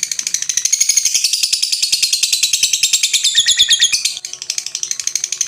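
Lovebird chattering in a long, rapid trill of high, shrill notes, many a second, the 'ngekek' song used to prompt silent lovebirds to sing. It breaks briefly about four seconds in and carries on.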